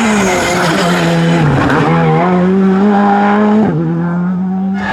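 Rally car engine at high revs, its pitch dipping and climbing again with lift-offs and gear changes, and dropping sharply near the end of the run.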